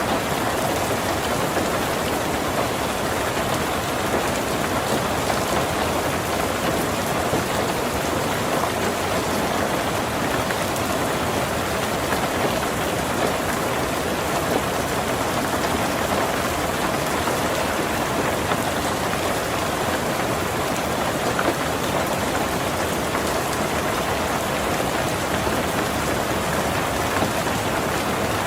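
Heavy rain falling steadily on a tin roof, a dense, even patter of drops with no let-up.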